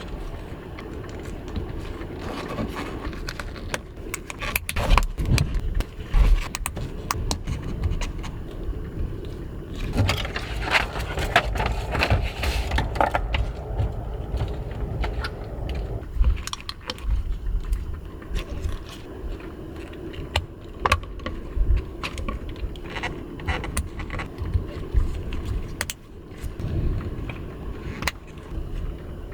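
Gusty wind in a strong gale rumbling unevenly, with repeated clinks, knocks and scrapes of small hard objects being handled.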